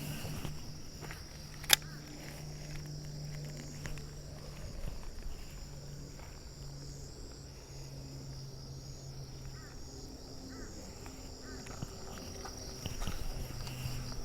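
Insects chirring steadily at a high pitch, over a low hum that comes and goes. One sharp click about two seconds in.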